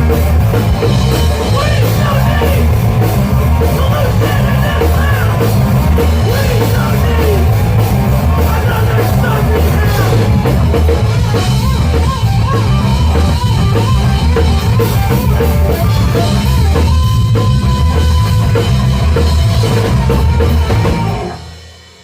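Live rock band playing with a driving drum kit, bass and guitar, and a melodic line wavering over the top. The song ends a second before the end, with the sound dropping away sharply.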